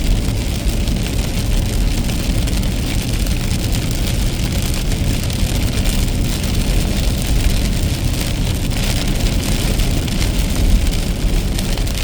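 A car driving in steady rain: a constant low road rumble under an even hiss of rain and wet tyres, with no distinct events.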